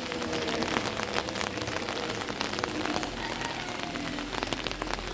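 Steady, medium rain falling, many separate drops ticking on hard surfaces.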